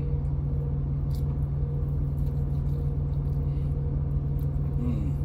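Idling truck engine: a steady low rumble, with a few faint light clicks over it.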